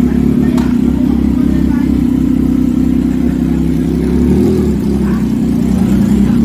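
A machine running steadily with a loud, unbroken low drone.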